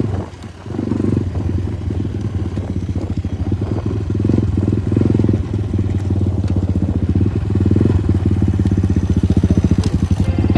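Progasi Smart Max 150 motorcycle's single-cylinder engine running under throttle while riding. It dips briefly just after the start, then pulls steadily and grows a little louder toward the end.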